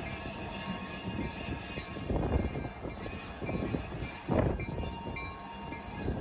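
A freight train moving past, its cars rumbling steadily, with two louder surges about two and four seconds in.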